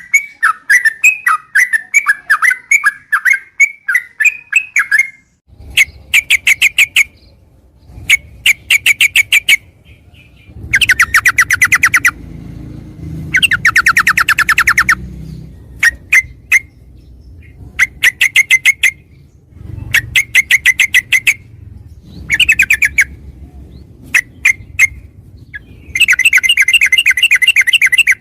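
Yellow-vented bulbul (trucukan) singing. A warbling phrase comes first, then from about five seconds in repeated bouts of fast rattling trills, each a second or two long with short pauses between. A faint low rumble runs underneath the trills.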